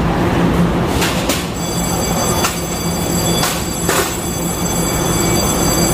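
Passenger train running with a steady electric hum and rumble, several sharp knocks from the wheels, and a high whine that starts about a second and a half in.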